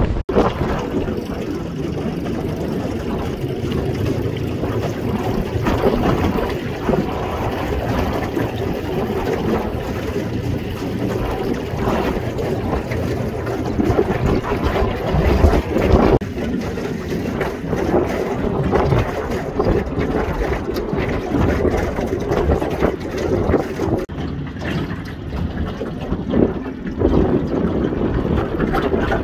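Strong wind buffeting the microphone in uneven gusts over a steady low rumble.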